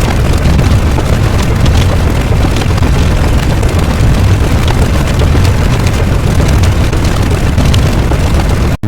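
Explosion sound effect: a loud, long low rumble that cuts off abruptly near the end.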